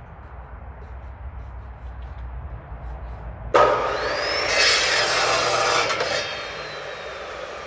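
Power saw cutting through a firewood log. A low running rumble, then a loud, bright cutting noise comes in suddenly about three and a half seconds in and lasts almost three seconds. It eases off as the cut finishes, leaving a falling whine as the saw winds down.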